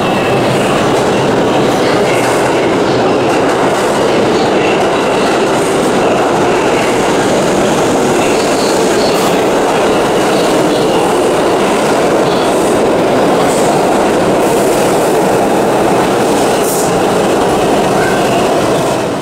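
New York City subway train running on the rails, a steady loud noise of wheels and car with faint high squeals now and then.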